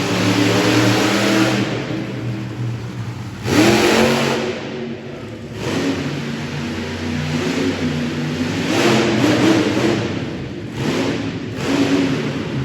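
Monster truck engine revving hard in repeated bursts, its pitch climbing sharply several times.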